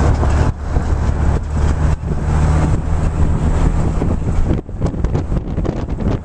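Gusty storm wind buffeting the camera microphone as a loud, uneven low rumble, easing briefly about two-thirds of the way through.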